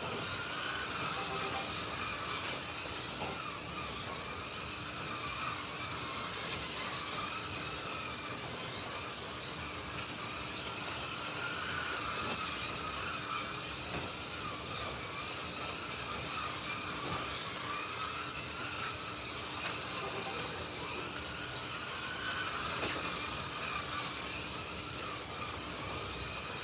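1/32 scale Slot.it slot cars lapping the track, their small electric motors whining in a pitch that rises and falls every few seconds as they speed up and slow through each lap, over a steady rushing noise.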